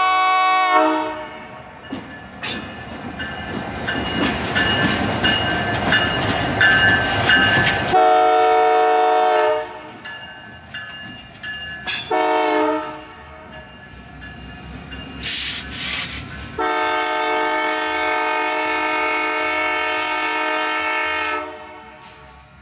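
Diesel locomotive horn sounding a long, long, short, long pattern: the grade-crossing signal, with the last blast held about five seconds. Rumbling train noise runs under the horn in the first part.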